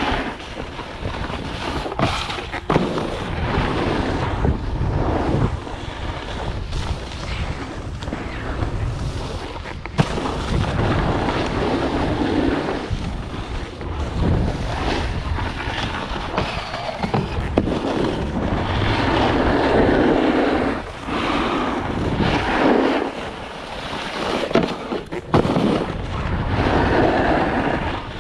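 Snowboard riding: wind buffets the microphone while the board scrapes over snow, in uneven surges, with scattered sharp knocks.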